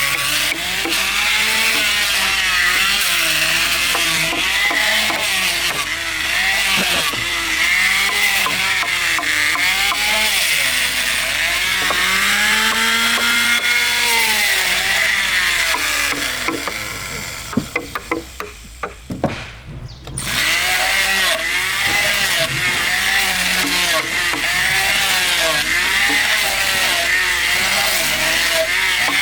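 A chainsaw cutting into timber, its engine pitch dipping and recovering again and again as the chain bites. About two-thirds of the way through it drops away for a few seconds, with a few knocks, then runs and cuts again.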